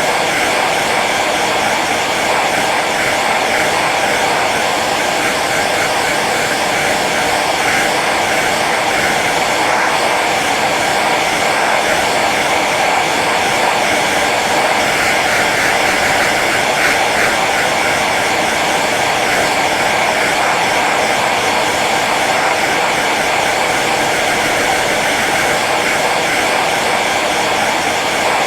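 Hair dryer running steadily on its low setting, an even whooshing blow with a faint motor hum.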